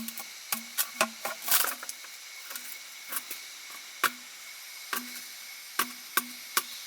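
A series of irregular sharp knocks and clicks, about a dozen, several with a short hollow ring after them, like light work on wood.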